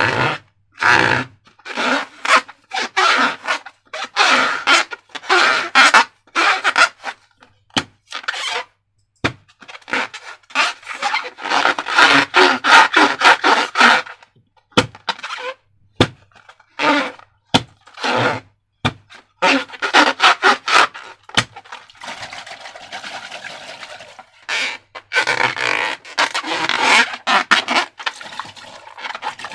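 Hands working slime and rubber balloons: a long run of irregular short squishing, crackling and rubbing noises, with a steadier, hissier stretch about two-thirds of the way through.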